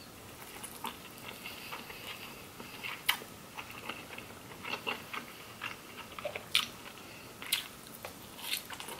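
Close-up chewing of a mouthful of seafood, with short mouth clicks throughout and sharper clicks about three, six and a half, and seven and a half seconds in.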